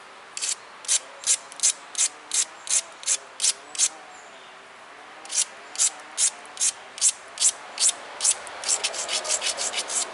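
Sandstone abrader grinding the edge of a chert flake point: short scraping strokes at about three a second in two runs, separated by a pause of about a second and a half, and quickening near the end.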